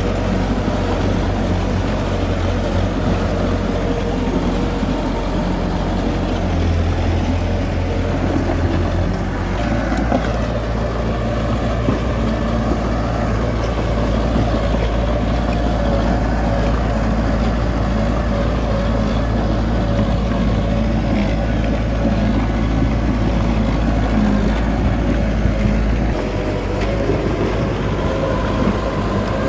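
Heavy diesel engine of earthmoving machinery running steadily, its low pitch dropping about a third of the way in and shifting again near the end as engine speed changes.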